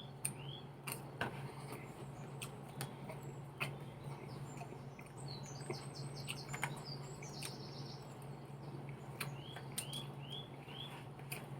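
A bird chirping in the background: a run of four quick arched chirps near the start and again near the end, with faster, higher twittering about halfway through. Scattered sharp clicks and a steady low hum lie underneath.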